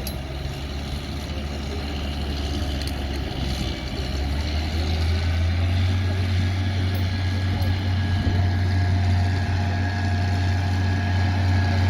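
A pulling tractor's engine running with a steady, deep drone that grows louder about a third of the way in.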